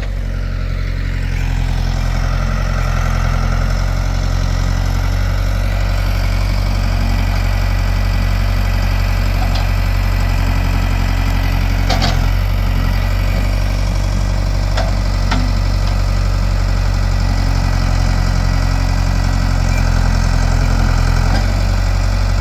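Backhoe engine running steadily while it digs, with a couple of short sharp knocks about halfway through.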